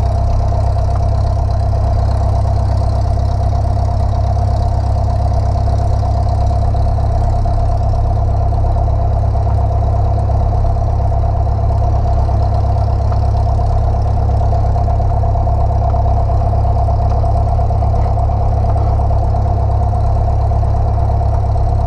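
Light airplane's piston engine idling on the ground, a steady low drone heard inside the cabin, with a steady whine over it.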